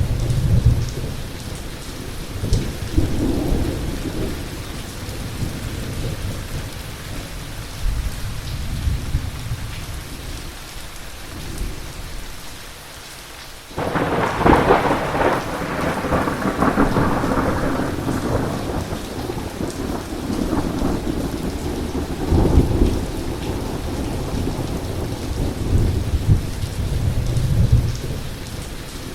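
Heavy rain falling steadily under rolling thunder. About halfway through, after a brief lull, a sudden close thunderclap cracks out and trails off into a long, slowly fading rumble.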